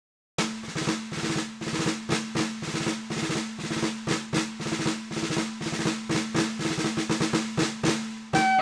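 Music: a rapid snare drum roll over a held low note, starting after a moment of silence.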